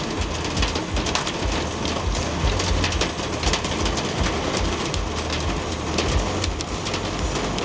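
Hailstones pelting a vehicle's metal roof and body in a dense, irregular clatter of sharp ticks, over a steady low rumble.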